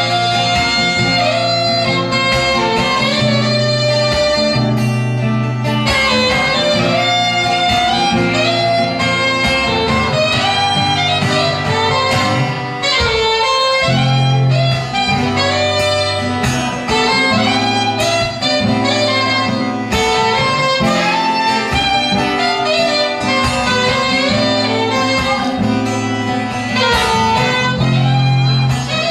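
Saxophone playing a melody over acoustic guitar accompaniment.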